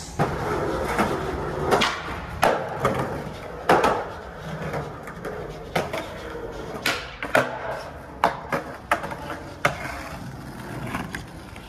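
Skateboard rolling on hard ground, with a dozen or so sharp wooden clacks as the board is popped and slaps down during flip-trick attempts.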